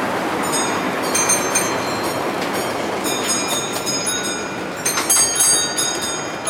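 Model train running on the layout track: a steady rolling rush with many short, high-pitched wheel squeals and ticks, busier from about halfway through.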